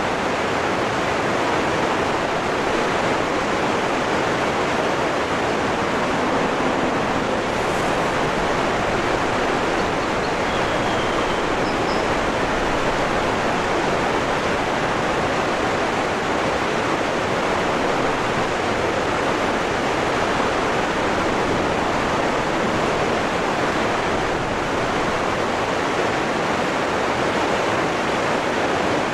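Waterfall rushing in a dense, steady roar of falling water.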